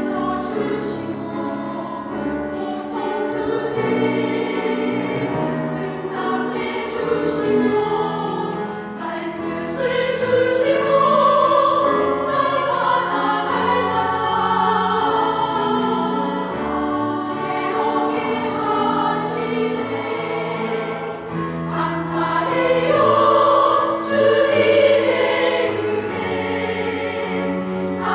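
A small church vocal ensemble singing a Korean gospel song together, with louder phrases building about a third of the way in and again near the end.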